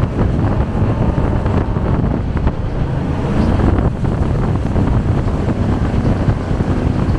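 Jet boat under way, its engine and water jet running steadily, with wind buffeting the microphone.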